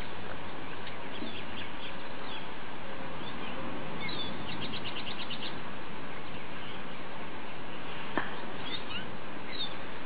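Small birds chirping over a steady background hiss, with a quick trill of about ten notes in the middle and a single sharp click near the end.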